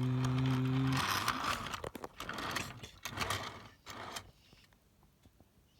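Electric commuter train pulling out of a station: a steady low hum cuts off about a second in, then a run of clanks and rattles that fades after about four seconds.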